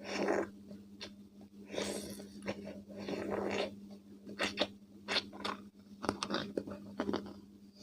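Close-miked chewing of crunchy raw cucumber: irregular crunches and wet mouth sounds, several bites' worth in a row.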